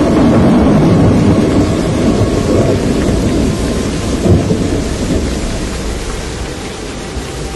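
Storm noise: heavy rain with a low rumble, loudest in the first few seconds and easing off toward the end.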